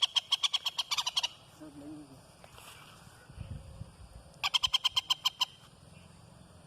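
A rapid trilled animal call, a run of evenly spaced high clicking pulses at about ten a second, heard twice: once fading out after about a second, then again for about a second midway.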